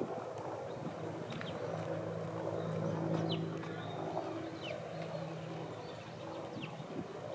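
Eurasian tree sparrows giving scattered short, falling chirps, about five in all, over a steady low engine-like hum.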